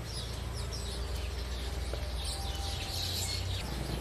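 Small birds chirping on and off in the background, with a steady low hum underneath.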